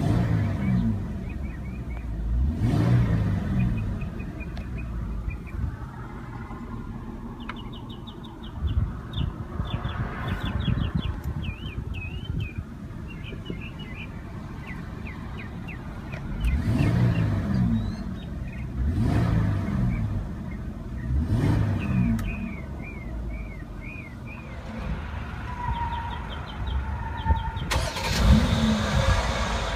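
Mercedes-Benz GLE 350's V6 idling with its exhaust note, blipped in several short revs that rise and fall back to idle, in comfort mode. Birds chirp faintly in the background.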